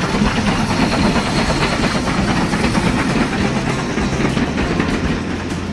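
A train running along the track: a steady, loud rumble and rattle of wheels on rails.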